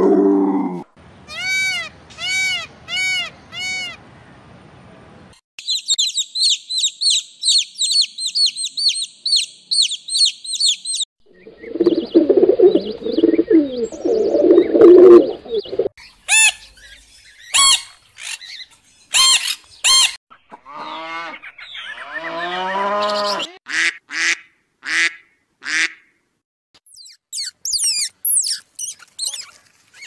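A string of different animal calls, mostly birds, changing every few seconds. First about six evenly spaced rising-and-falling calls, then fast high twittering, then a low rough stretch, then a run of sharp short squawks and a few falling calls.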